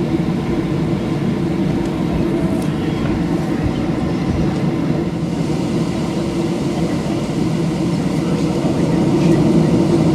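Steady jet engine and airflow noise heard inside the cabin of a Boeing 737 on the ground before takeoff, with a low, even hum that grows a little louder near the end.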